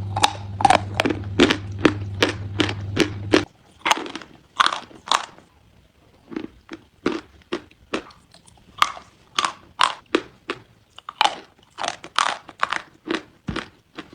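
Dry chalk being bitten and chewed: a steady run of sharp, dry crunches, about two a second. A low steady hum underneath stops about three and a half seconds in.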